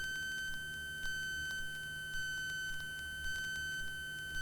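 A steady high-pitched tone held without a break, with a faint low hum beneath it and soft ticks about once a second.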